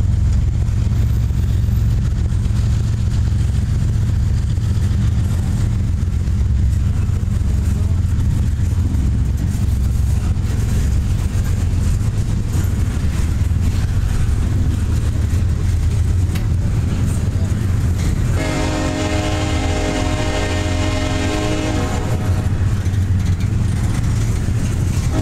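Double-stack container well cars rolling past close by, a steady heavy low rumble of wheels on rail. About eighteen seconds in a train horn sounds for about four seconds, and it starts again right at the end.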